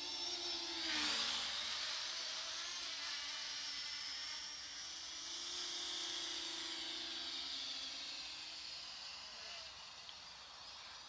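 Parrot ANAFI quadcopter drone in flight, its propellers whirring. The pitch dips and the sound gets louder about a second in, then it holds fairly steady as the drone flies normally.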